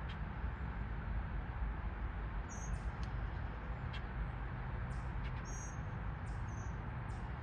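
A baby bird's short, very high-pitched peeps, a few of them spaced a second or more apart, over a steady low rumble.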